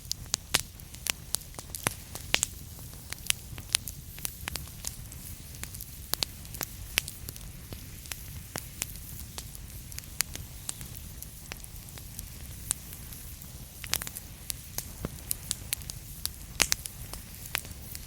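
Wood fire burning in a fireplace: logs crackling with irregular sharp pops several times a second over a low steady rumble of the flames.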